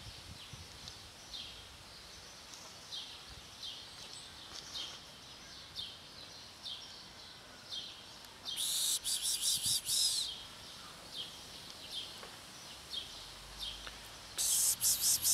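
Small birds chirping repeatedly outdoors, a short high chirp every half second or so. Two louder, longer bursts of high-pitched, rapidly pulsing buzzing chatter come about halfway through and again near the end.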